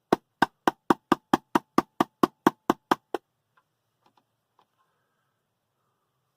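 A quick run of about fourteen sharp, evenly spaced knocks, roughly four a second, stopping after about three seconds, followed by a few faint clicks.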